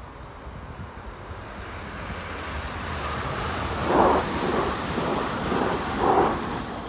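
A train approaching and passing, its rolling noise building steadily, then two louder surges about two seconds apart as it goes by.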